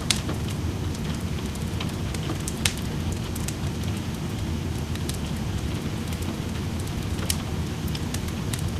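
Steady rain with a low, even rush, and a wood fire in a fireplace crackling over it. The fire gives scattered sharp pops, with louder ones right at the start, about three seconds in and about seven seconds in.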